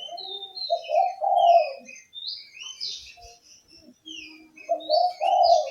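Oriental magpie-robin (kacer) singing a varied song of short whistled notes that slide up and down. A lower, louder sound comes in twice, about a second in and near the end.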